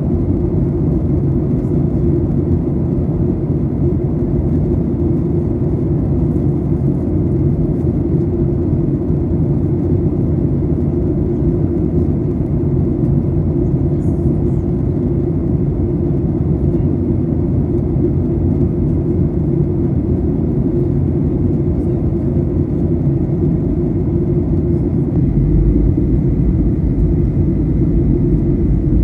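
Steady low rumble of Boeing 737-800 airliner cabin noise, engines and airflow, with the deepest rumble growing heavier near the end.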